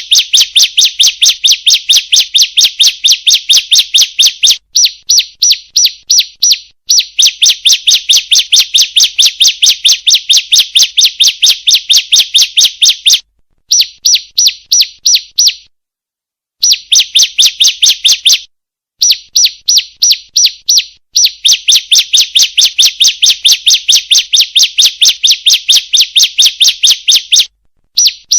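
Female bar-winged prinia (ciblek) calling in long runs of rapid, sharp chirps, about five a second. The runs break off in brief pauses several times. This is the call used as a lure to get male ciblek to sing.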